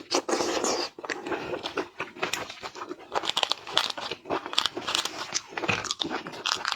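Shellfish being cracked and eaten close to the microphone: a dense run of crunching, crackling clicks from shell breaking and chewing.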